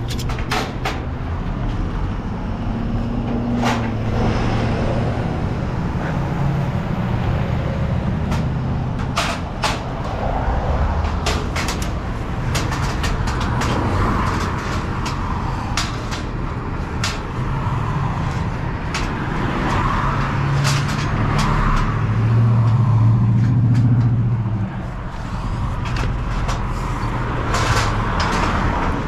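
Semi truck's diesel engine running as the truck drives, its note swelling louder a little after twenty seconds in and then easing off, with irregular clicks and rattles throughout.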